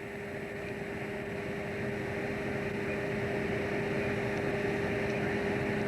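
Fishing boat's engine and machinery droning steadily, with a constant hum tone, growing slightly louder over the first couple of seconds.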